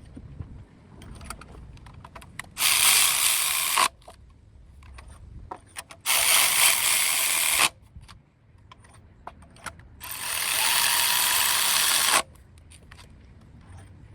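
A power ratchet running in three short bursts, with light clicks and taps of tools between them.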